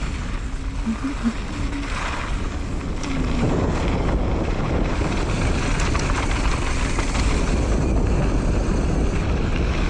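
Wind rushing over the microphone and the rolling rattle of a mountain bike descending a wet dirt trail, getting louder about three seconds in.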